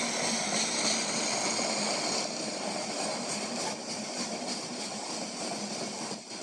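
Freight cars rolling past close by, a steady noise of wheels on rails with faint high steady tones; it eases a little about two seconds in.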